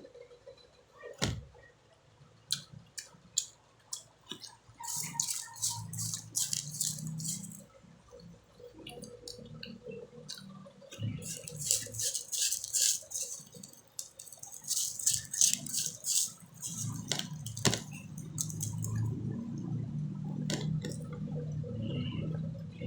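Close-up eating of mango: bursts of crisp crunching and wet chewing with scattered clicks, coming in three spells a few seconds apart, then a longer stretch of softer, lower chewing near the end.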